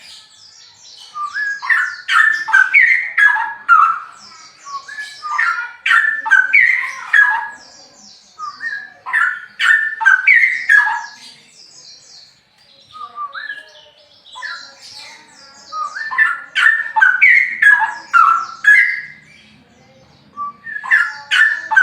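Straw-headed bulbul (cucak rowo) singing loud, rich warbling and whistled phrases, each a second or two long, repeated about seven times with short pauses between.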